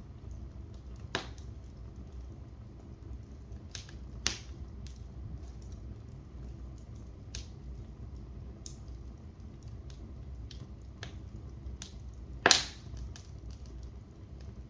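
Wood fire in a fireplace crackling, with irregular sharp pops over a steady low rumble; the loudest pop comes about twelve seconds in.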